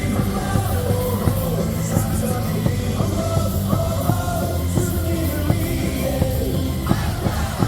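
Baseball stadium crowd singing and shouting a batter's cheer song along with loud amplified music over a steady drum beat.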